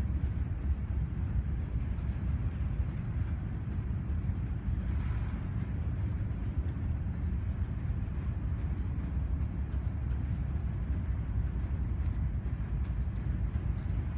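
Low, steady rumble of a diesel freight locomotive running as the train rolls in.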